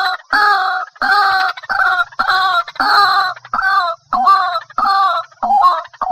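White-breasted waterhen calling: a loud run of harsh, repeated notes about two a second, coming a little faster near the end, used as a lure call for trapping.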